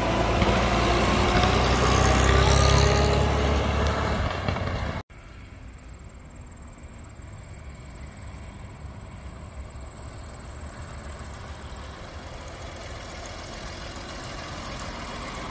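1923 Buick six-cylinder engine running as the depot hack drives close past, with a strong low rumble. About five seconds in the sound cuts off suddenly and the car is heard faintly from a distance, growing a little louder as it approaches.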